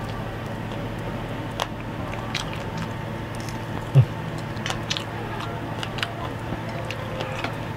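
A person chewing fried duck and rice, eaten by hand, with scattered small mouth clicks and smacks over a steady low hum. One short, louder low sound comes about four seconds in, as a bite is taken.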